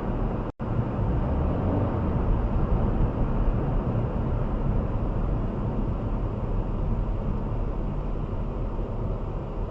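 Steady road and engine noise of a moving vehicle. It cuts out for an instant about half a second in, then carries on unchanged.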